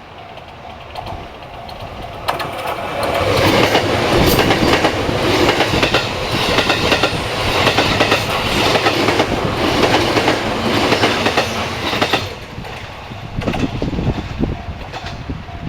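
A train passing close by on the Sasebo Line, the noise of its wheels on the rails building up about two seconds in, loud for around nine seconds with a run of repeated clicks, then falling away suddenly near the end as the last car goes by.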